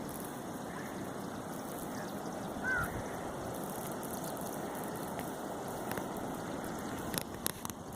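Steady rush of flowing water, with a single short bird call about three seconds in and a few sharp clicks near the end.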